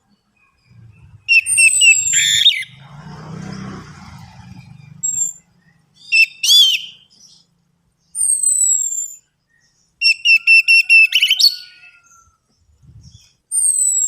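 Orange-headed thrush (anis merah) singing in short, separate phrases. Fast runs of repeated notes alternate with high whistles that slide downward, with pauses of a second or two between phrases. A faint low rumble sits under the first few seconds.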